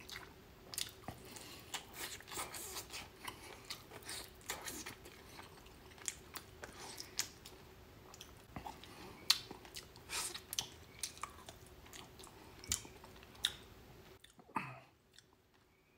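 Close-up chewing of barbecued pork rib meat, with wet mouth smacks and irregular sharp clicks as he bites and chews. A faint steady hum sits underneath.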